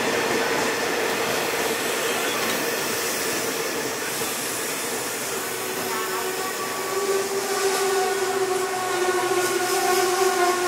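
Passenger train coaches rolling along the platform with a steady running noise. A steady pitched tone with overtones joins about six seconds in and grows louder.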